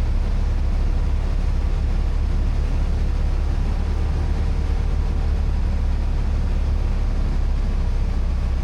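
Steady drone of a small propeller airplane's engine and airflow, heard from inside the cockpit in flight, with a deep hum and a few faint steady tones.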